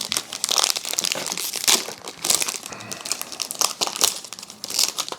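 Plastic trading-card pack wrapper crinkling and tearing in the hands as the pack is opened, an irregular run of sharp crackles.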